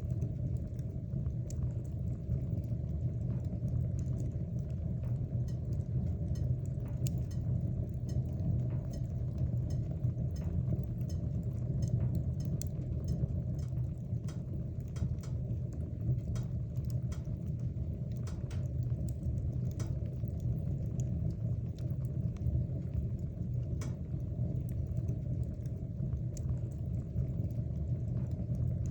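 Wood fire burning in a fireplace: a steady low rumble with light crackles scattered irregularly through it.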